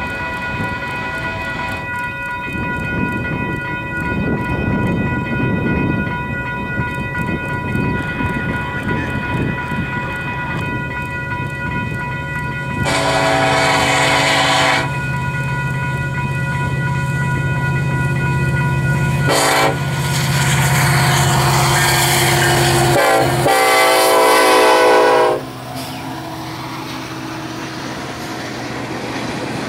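Union Pacific freight led by EMD SD70-series diesel locomotives approaching, its engine rumble building as the horn sounds a long blast, a short one, then two long ones; the horn and engine note drop in pitch as the locomotives pass and cut off. After that, loaded tank cars roll by with wheels clicking over the rail joints.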